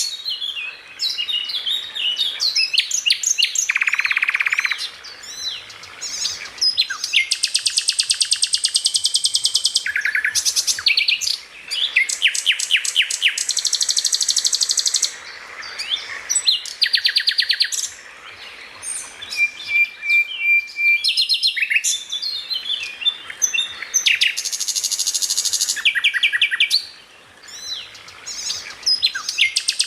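Songbird song in a fast, varied stream of chirps, sweeping notes and fast buzzy rattling trills, with a short steady whistle about two-thirds of the way through.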